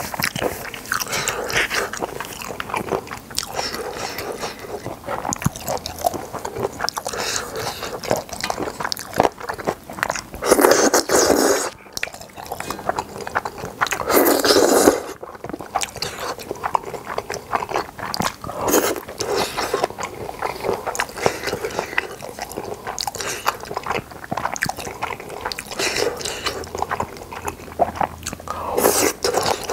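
Close-miked chewing of boneless chicken feet and Chinese glass noodles: wet, irregular mouth clicks and smacks, with two longer, louder stretches about 11 and 14 seconds in.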